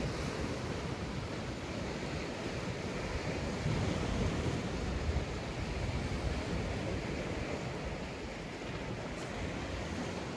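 Sea waves breaking and washing on a sandy beach, a steady surf, swelling slightly about four seconds in, with some wind on the microphone.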